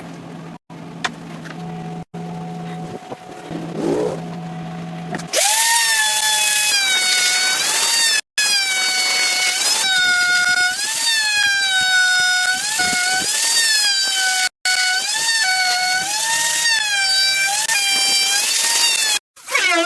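A quieter steady machine hum, then about five seconds in a high-speed power tool starts a loud whine. Its pitch repeatedly dips and rises again as it bites into the material, and the sound cuts off abruptly three times.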